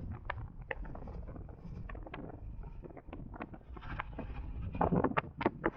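Wind and road rumble on the microphone of an electric motorcycle under way, with irregular clicks and knocks that come thicker and louder near the end.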